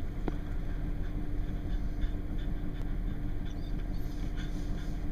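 Wind buffeting the microphone as a steady low rumble, with a faint constant hum underneath.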